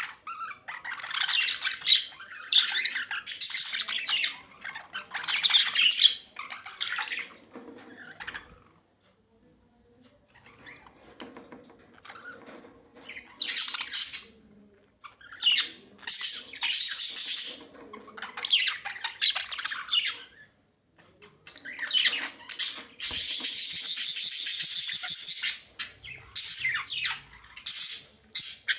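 Budgerigars chattering and squawking in high-pitched bouts, with a quieter stretch of a few seconds in the middle.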